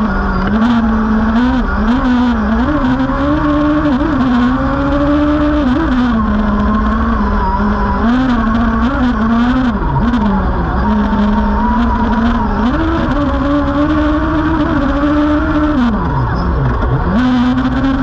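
Suzuki Hayabusa inline-four motorcycle engine in a Volkswagen Beetle autocross car, heard from the cockpit, running hard under load with its pitch rising and falling as the driver works the throttle. Near the end the revs drop sharply, then build back up.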